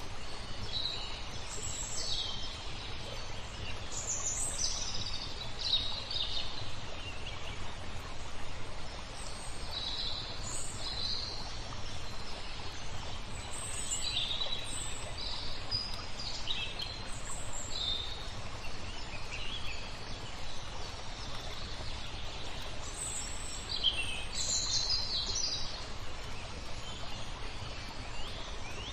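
Small birds chirping and calling, many short calls overlapping, over a steady low rumble of background noise.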